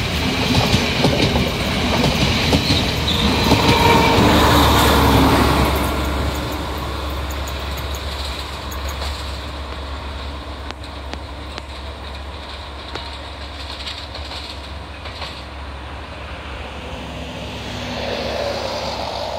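Diesel passenger train carriages rolling slowly past close by, wheels clacking over rail joints with a brief thin squeal, loudest over the first six seconds. The sound then drops as the train pulls away down the line, leaving a steady low engine drone.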